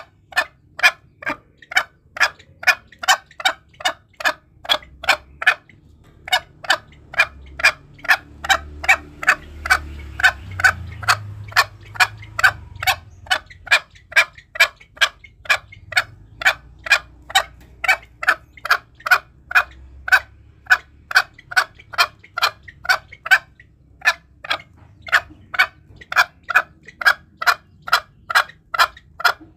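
Green junglefowl calling in a fast, steady run of short clucking notes, about two and a half a second, with brief pauses about six seconds in and near the end.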